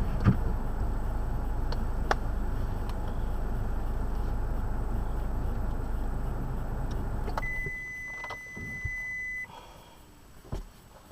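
A car's engine running, heard from inside the cabin, cuts off with a click about seven seconds in as it is switched off; a steady electronic warning tone then sounds for about two seconds, and a single click follows near the end.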